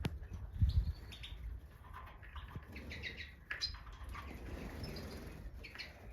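European goldfinches in an aviary giving short, scattered chirping calls, with a low thump a little under a second in.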